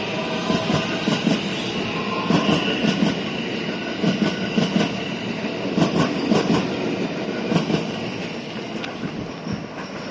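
JR West 321-series electric train departing past the platform on the next track, its wheels clattering over rail joints and points with irregular heavy thumps. The rolling noise fades near the end as the train pulls away.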